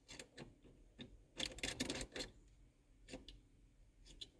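Light metallic clicks and taps in short clusters, densest about a second and a half in, as a bent bolt on a steering wheel puller is backed out a little.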